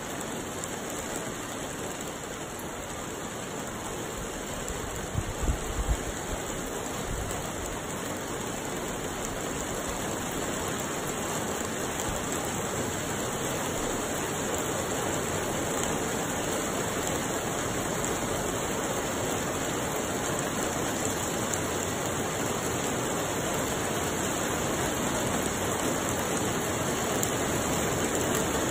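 Steady hiss of rain falling, growing slowly louder, with a few low thumps on the microphone about five seconds in.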